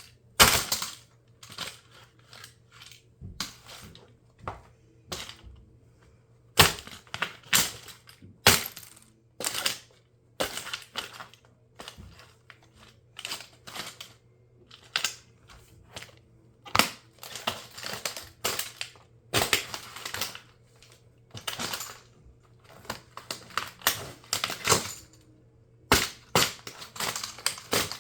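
Plastic RC toy car cracking and snapping as it is crushed underfoot by high heels: dozens of irregular sharp cracks, some in quick clusters.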